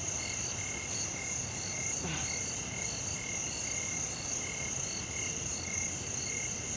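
Night chorus of insects and frogs in a forest: a steady high-pitched insect trill, with short calls repeating at an even pace underneath.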